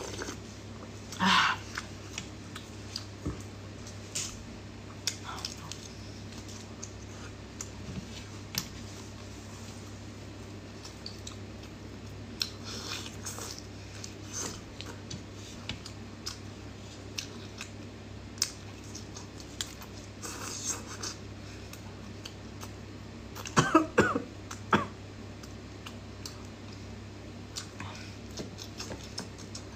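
Close-miked eating sounds of cooked shrimp: scattered wet chewing, lip smacks and small mouth clicks, over a low steady hum. Louder mouth noises come about a second in and again about two-thirds of the way through.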